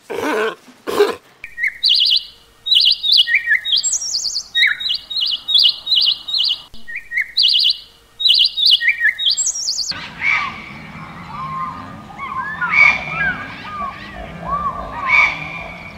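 Two hoarse barks from a sea lion in the first second. Then a budgerigar chirps in quick runs of short, high notes. About ten seconds in the sound changes abruptly to other birds calling over a steady outdoor background noise.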